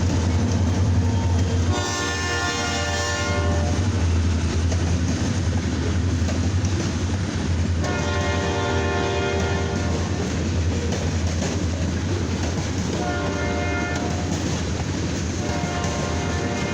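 Freight train diesel locomotive horn sounding the grade-crossing signal: two long blasts, a short one, then a long one held into the end. Under it runs the steady low rumble of the locomotives.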